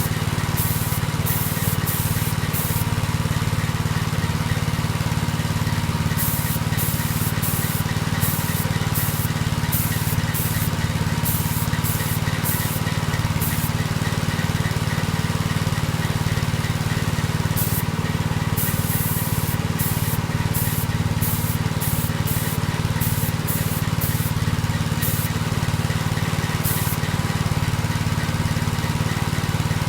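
Paint being sprayed in short, repeated hissing bursts over a steady low drone.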